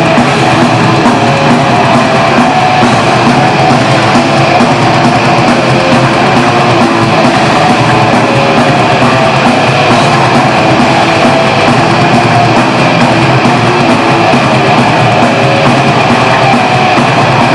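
Live heavy metal band playing: distorted electric guitars and drum kit, loud and continuous.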